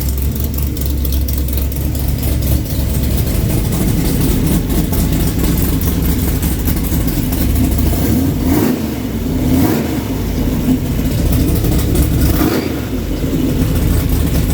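Rebuilt 396 big-block V8 from a 1966 Chevelle SS, with a Comp Cams Mutha Thumper cam, running at idle, with a few short throttle blips in the second half.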